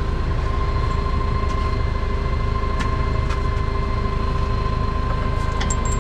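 Heavy equipment engine idling steadily, with a low pulsing rumble and a constant whine, while a few light metal clinks sound as a wheel bolt is started.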